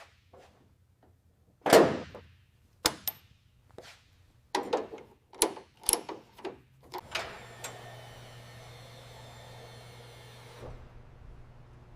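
A run of sharp metallic knocks and clicks as parts are handled and fitted. About seven seconds in, a steady whirring noise starts and cuts off suddenly near the end.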